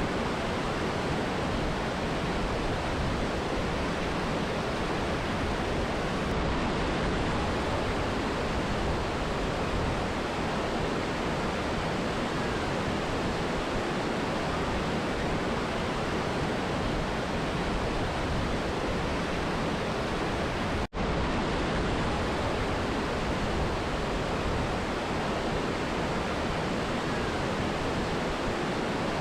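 Mountain river and waterfall, a steady rush of falling and running water with no change in level. The sound cuts out for an instant about two-thirds of the way through, then resumes as before.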